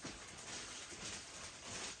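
Rustling and handling of packaging, with soft uneven scuffing as items are moved about.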